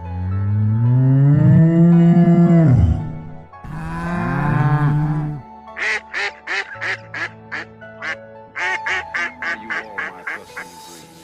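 Two long, low farm-animal calls, the first rising then falling in pitch, followed by a duck quacking rapidly about twenty times. Background music plays underneath.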